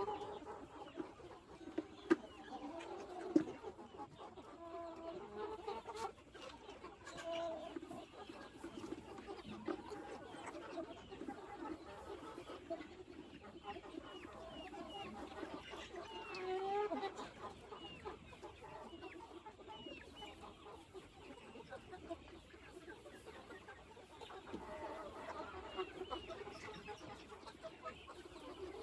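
A flock of free-range chickens clucking, with many short overlapping calls. Short, high chirps come through in the middle and again near the end, and there are a couple of sharp clicks in the first few seconds.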